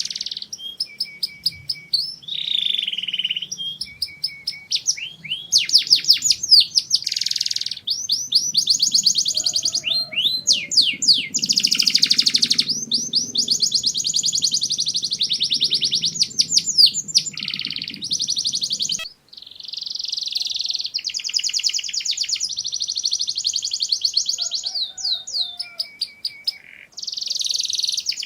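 Domestic canary singing a long, continuous song of fast repeated trills and rolls, switching to a new phrase every second or two, with one brief pause about two-thirds of the way through.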